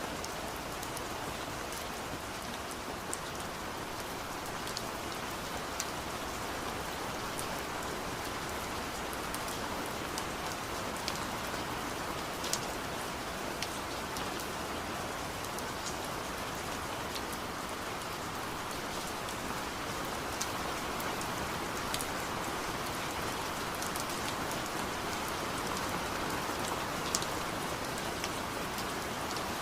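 Steady rain falling, an even hiss with scattered sharp drips and drop hits.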